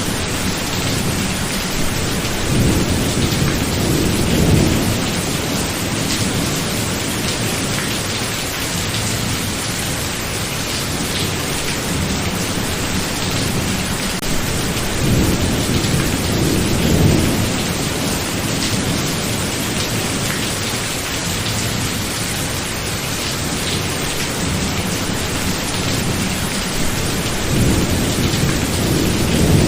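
Steady rain with thunder rumbling low three times, each roll swelling and fading over two or three seconds, roughly every twelve seconds.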